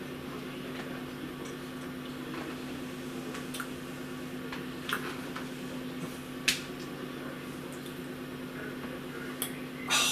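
A man chewing a soft butter cookie with his mouth closed: a few faint wet clicks and lip smacks over a steady low hum. Near the end comes a short, louder breathy exhale.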